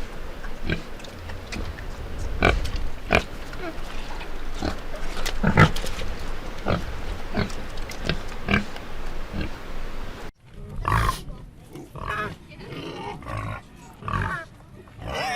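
Domestic pigs grunting: a run of short grunts, roughly one or two a second. About ten seconds in, the sound cuts abruptly to another recording with a quieter background, where the calls go on.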